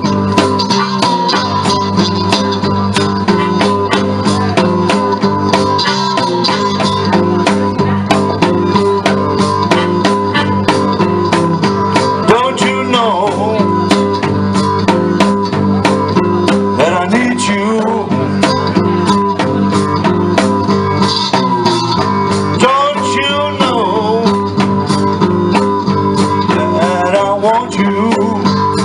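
Live blues played on guitars: a steady strummed rhythm under a lead line with bent, sliding notes that come in several times.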